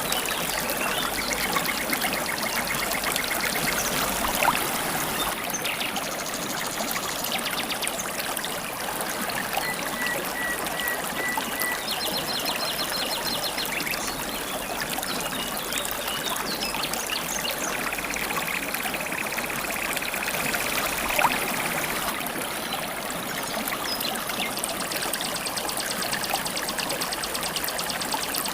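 Steady babbling of a flowing river stream. Short, fast high-pitched trills of wild birds come in every few seconds at different pitches, and two brief sharp clicks stand out about 4 and 21 seconds in.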